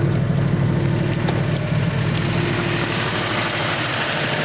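Subaru car engine idling steadily, with a weird ticking noise that the owner can't identify.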